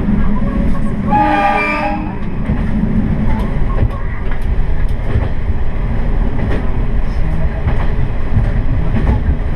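Diesel railcar running along the line, a steady low rumble with scattered clicks from the wheels and track. About a second in, the train's horn sounds once, briefly.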